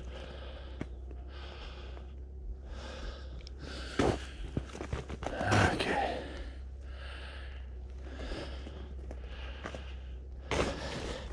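A person breathing hard in slow, even breaths, about one every second and a half, while walking through snow. There are a couple of sharper crunches or knocks about four and five and a half seconds in.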